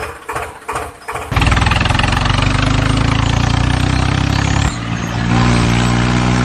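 Tractor engine running with a fast, steady pulse. It cuts in loudly about a second and a half in after a brief choppy lull, and its pitch shifts near five seconds.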